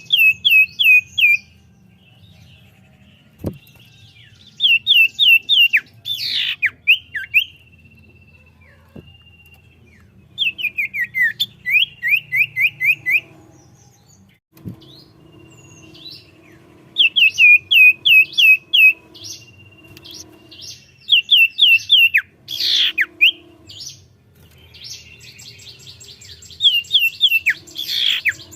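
Common iora (cipoh) singing in phrases of quick, repeated down-slurred whistled notes, several to a second. A few louder, harsher calls break in, and a buzzy trill comes near the end.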